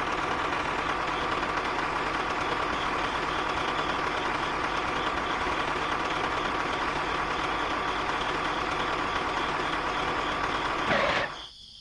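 A motor running steadily with a constant whine, stopping shortly before the end.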